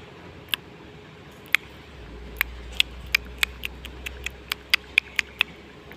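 A series of sharp, irregular clicks, about a dozen, coming more often in the second half, over a low steady hum.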